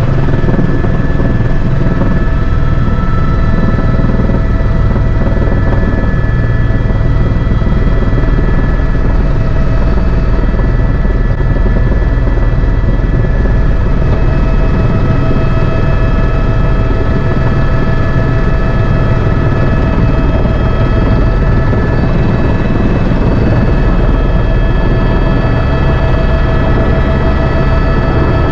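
Tour helicopter in cruising flight heard from inside the cabin: a steady loud rotor and engine rumble with a constant high turbine whine over it.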